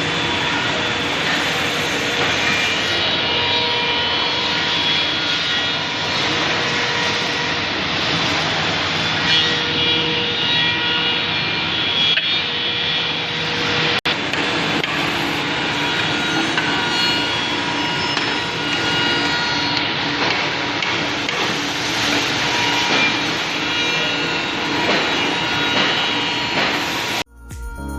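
Single-head CNC tenoning machine running, a steady rush of noise with several steady whining tones from its motors and cutters. The sound cuts off suddenly just before the end.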